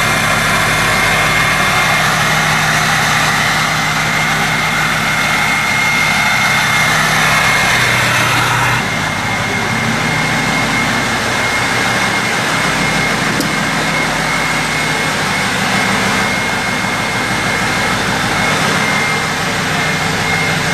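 2005 Ford F250's 6.0 Powerstroke V8 turbo-diesel idling through a 4-inch straight pipe on a cold start after six months of sitting, a steady high Garrett turbo whistle over the engine. About nine seconds in the sound drops a little and the hiss above the whistle thins.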